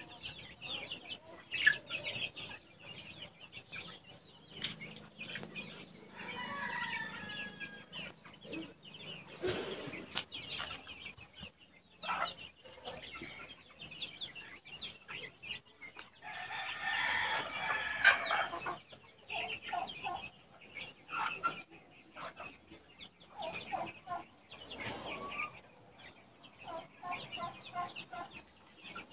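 A flock of about fifty young heritage-breed chicks peeping and clucking: many short high calls overlapping, with a busier stretch a little past the middle.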